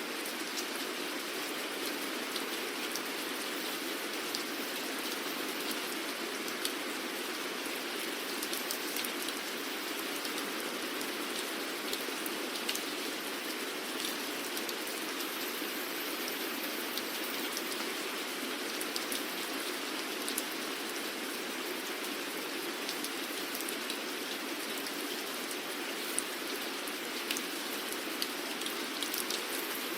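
Steady rainfall, an even hiss of rain with many separate drops ticking on a surface.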